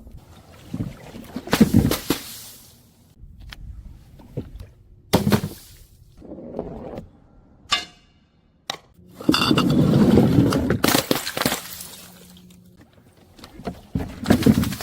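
Glass bottles breaking and being crushed in a series of separate crashes and crunches, with a short ringing glass clink about halfway through and a longer crunching stretch just after it.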